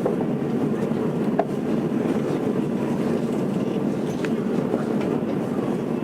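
Steady running noise of a Tokyo Metro 02 series subway train heard from inside the car: an even rumble of wheels on rail with a few faint ticks.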